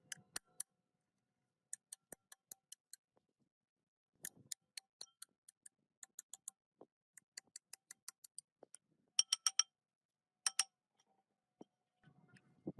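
A series of sharp, separate clicks, often several a second, with two brighter ringing metallic clinks about nine and ten and a half seconds in.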